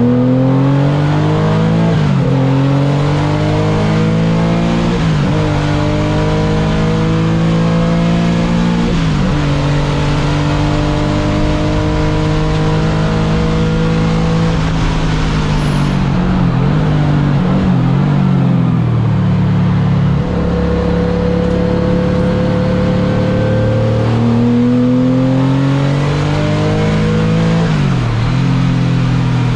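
Car engine driven hard on a race track, pulling up through the gears: its pitch climbs and then drops sharply at each upshift, several times, with a choppier stretch near the middle as it slows and downshifts.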